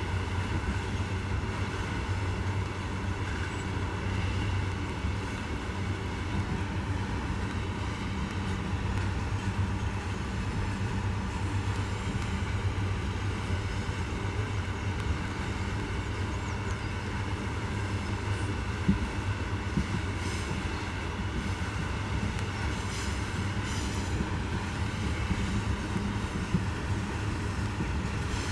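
Loaded iron-ore freight train rolling past: a steady rumble of steel wheels on the rails with faint ringing tones, and scattered sharp clicks and knocks, more of them in the second half.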